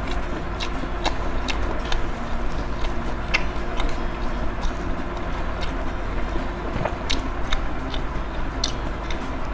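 Close-miked chewing of a seed-coated, deep-fried mozzarella corn dog, with sharp, irregular crunches from the crisp coating.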